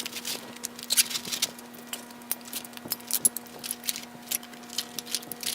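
Rustling and clicking of a deflated inflatable kayak and its accessories being handled and packed into a backpack: a string of short, sharp handling noises.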